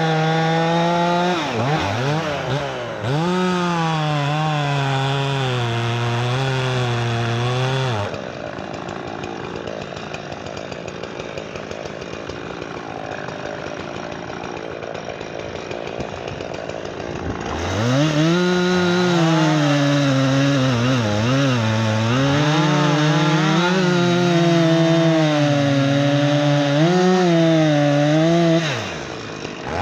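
Two-stroke chainsaw fitted with an 18-inch bar at full throttle, cutting firewood. Its pitch sags and wavers as the chain bogs in the wood. It drops back to a lower, quieter running about 8 seconds in, then opens up again for another cut around 18 seconds in and eases off near the end.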